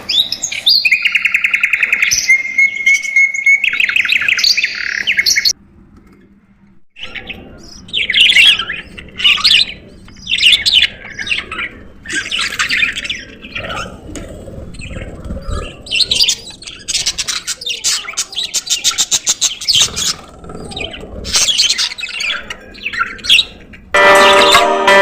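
Budgerigars chirping and warbling, a run of short, rapid calls, with a steadier trilling call in the first five seconds. The calls break off briefly about five seconds in, and music starts near the end.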